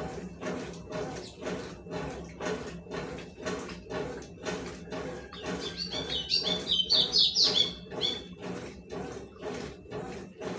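Consul 12 kg top-loading washing machine agitating a load of towels, the water sloshing back and forth in an even rhythm of about two to three strokes a second. About halfway through, a bird chirps briefly over it.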